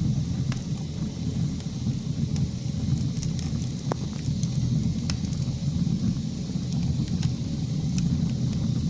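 Wood fire burning in a fireplace: a steady low rumble of flames with scattered small crackles and one sharper pop about four seconds in.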